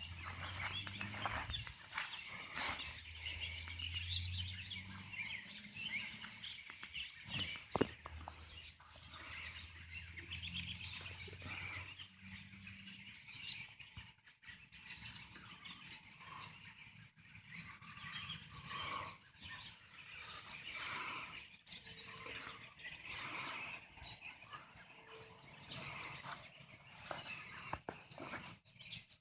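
A large flock of American robins calling, with many short, high chirps overlapping throughout.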